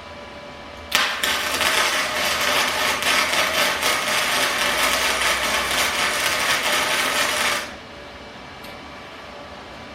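Primeweld MIG 160 running gasless flux-core wire, its welding arc crackling steadily for about seven seconds as a bead is laid, starting sharply about a second in and cutting off near the end.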